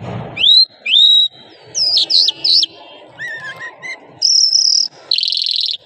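A lark, the 'Irani jal' kept as a cage songbird, singing a varied song. It opens with a few rising whistles, goes on to quick clipped notes, and ends with two long buzzy trills, the second lower than the first.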